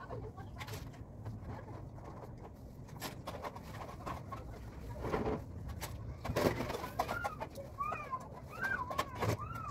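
Bird calls: a series of short chirps that rise and fall in pitch, starting about two-thirds of the way in, over faint knocks and rustling.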